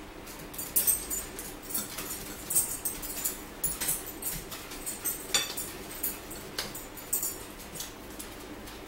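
Eating sounds from corn dogs and sweet potato fries: wet chewing and lip smacking in irregular crackly smacks, with a few sharper clicks.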